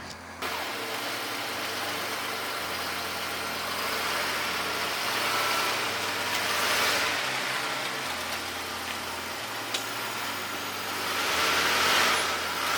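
Car driving, with zip ties fastened around its drive shaft slapping the underside as the shaft turns. The clanking is a prank, meant to sound as if the transmission is failing.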